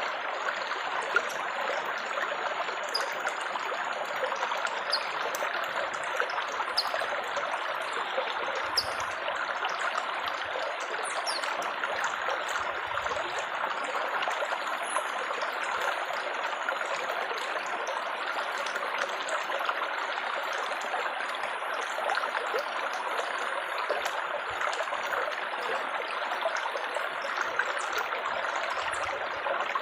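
Water trickling and splashing steadily in an unbroken babble, with faint small drip-like ticks on top.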